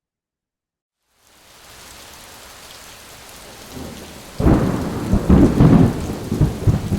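Thunderstorm: steady rain fades in after a second of dead silence, then from about four seconds in loud rolling thunder rumbles over it in several swells.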